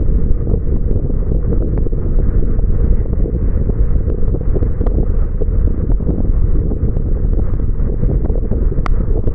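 Steady low road and wind noise from a car driving in the rain, with many small scattered taps of raindrops throughout.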